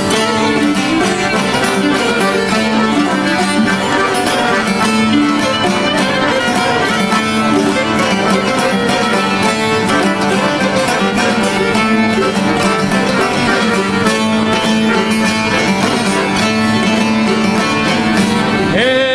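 Instrumental introduction of an Albanian folk song: plucked string instruments and a fiddle playing the melody together. A singing voice comes in right at the end.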